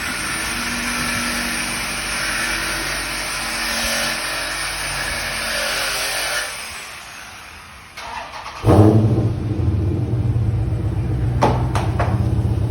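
Steady driving noise for the first six seconds or so. About nine seconds in, a Dodge Charger's 392 HEMI V8 starts up suddenly and runs loudly through exhaust with the mufflers cut out.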